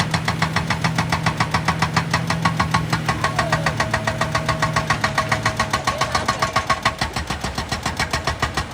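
An engine running with a rapid, even knock, about eight beats a second, over a steady low hum; a steady higher tone joins about three seconds in.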